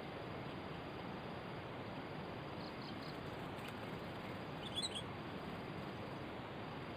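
Short, high bird chirps over a steady background hiss: a few faint chirps near the middle, then a quick cluster of brighter chirps about five seconds in.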